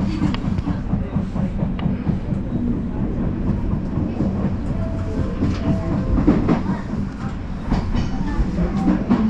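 Odakyu Line electric commuter train running along the track: a steady rumble with wheels clicking over rail joints, and two short whines about five seconds in.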